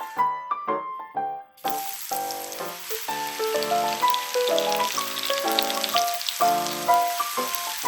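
Cornstarch-coated potato cubes deep-frying in hot oil: a steady sizzle with scattered crackling pops, starting about one and a half seconds in.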